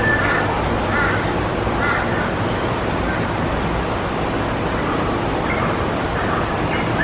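A bird cawing, three short harsh calls about a second apart, then a few fainter ones, over a steady low background rumble.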